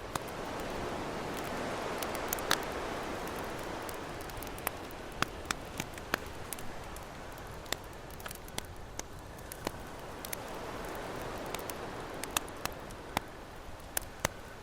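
Campfire crackling with scattered sharp pops, over ocean waves washing in and drawing back. One wave swells about a second in and another around ten seconds.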